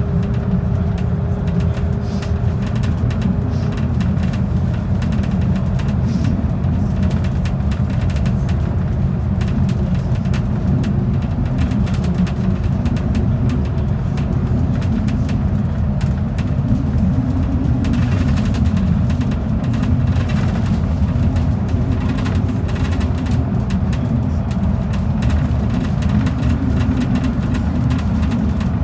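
Sound Transit Express bus running: a steady low rumble of engine and road noise. A faint hum within it drops slightly in pitch about four seconds in.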